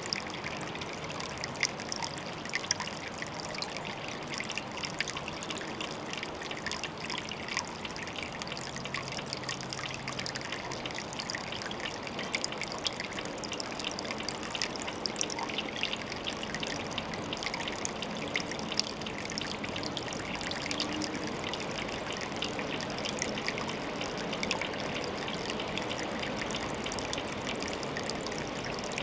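Water trickling steadily at a pond, a continuous rush dotted with many small, quick splashes and drips.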